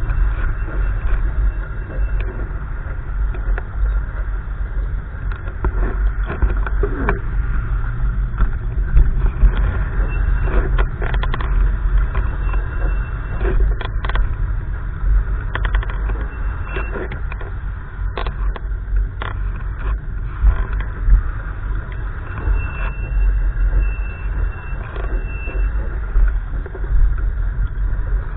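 Gusty wind buffeting the microphone: a loud, uneven low rumble that swells and eases, with scattered small clicks and knocks.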